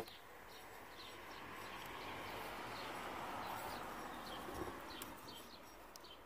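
Quiet outdoor background with small birds chirping now and then, and a soft rushing noise that swells and fades over a few seconds. A light tap right at the start, as a small glass is set down on the table.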